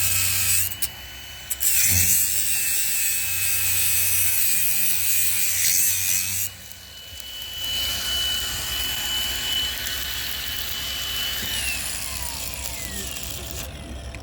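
Stick-welding arc crackling and hissing as an electrode burns, cutting out briefly about a second in, then striking again and stopping at about six and a half seconds. A quieter hiss with a steady high whine follows.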